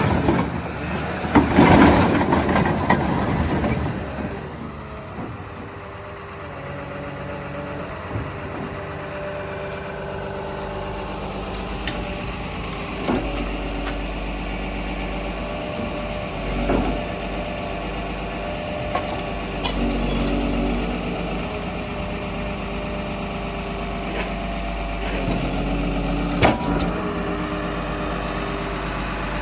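Komatsu D61PXi-24 bulldozer's diesel engine running: louder and rougher for the first few seconds, then settling into a steady run, with a few short clicks or knocks along the way.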